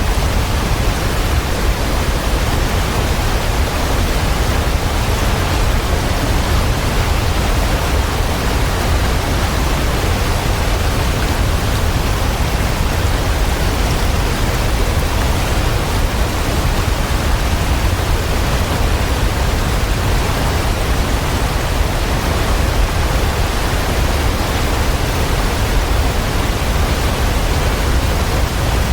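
Steady rushing of a waterfall, an even wash of water noise that is heaviest in the deep low end and does not change.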